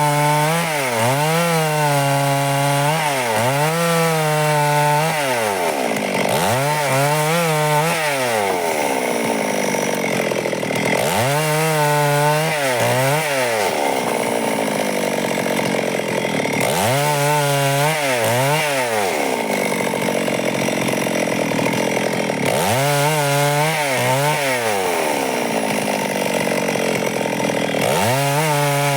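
Stihl two-stroke chainsaw cutting lengthwise through timber to saw boards. Its engine pitch dips and climbs back every five or six seconds, between stretches of steady cutting.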